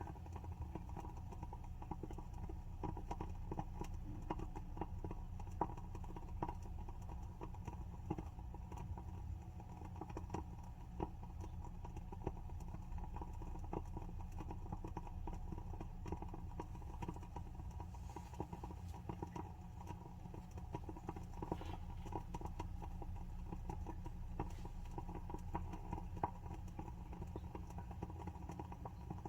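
WoodWick wooden-wick candle burning with a steady soft crackle: a dense run of small irregular ticks and pops, with a few sharper pops now and then.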